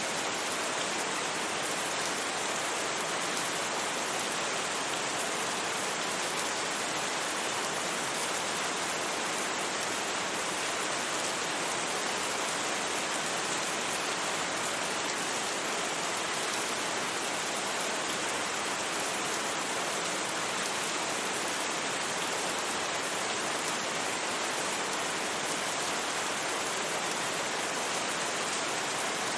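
Steady rain falling, an even, unbroken hiss without thunder or individual drips standing out.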